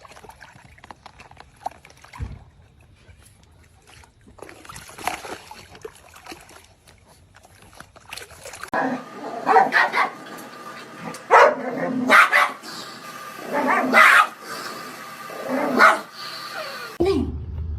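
A dog barking and vocalising: a run of about half a dozen loud, pitched barks starting about halfway through, after a quieter first half.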